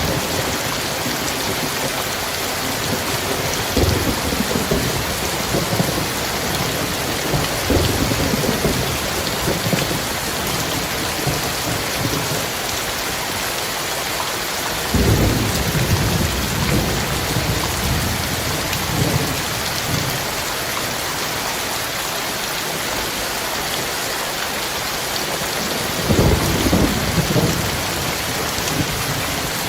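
Heavy rain falling steadily, with rolling thunder: short rumbles about 4 and 8 seconds in, a longer roll from about 15 seconds that lasts several seconds, and another near the end.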